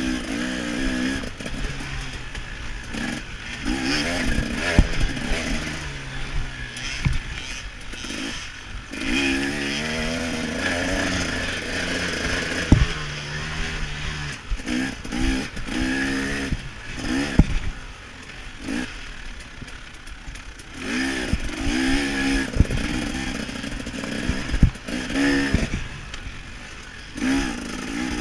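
KTM 300 XC-W's two-stroke single-cylinder engine revving up and down over and over as the throttle is opened and closed around a motocross track. Sharp knocks from the bike over the rough ground come through several times.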